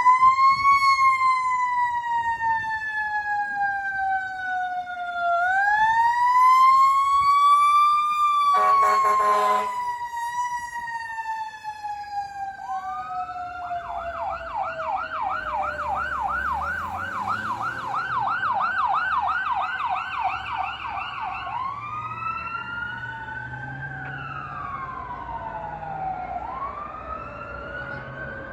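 Fire truck sirens: a slow wail falling and rising twice, cut through by a short air horn blast about 8 seconds in. The siren then switches to a fast yelp of about three warbles a second. Near the end a second siren wails over it.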